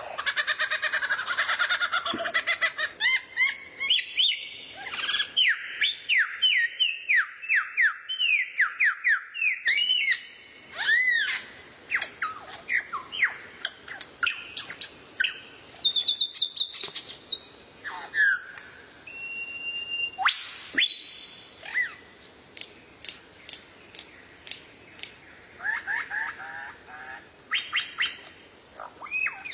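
Songbird singing a fast, varied song. It opens with a dense warble, moves into a quick run of repeated down-slurred whistled notes, and goes on with scattered sharp calls and single high whistles.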